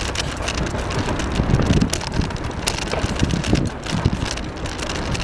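Bicycle in motion: wind buffeting the microphone and tyres rolling over the path, with many small irregular clicks and rattles.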